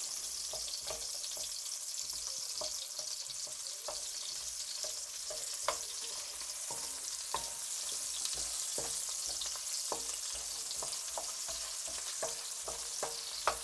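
Onion frying in hot sesame oil in a pan, sizzling steadily, while it is stirred: irregular clicks and taps of the stirring utensil against the pan.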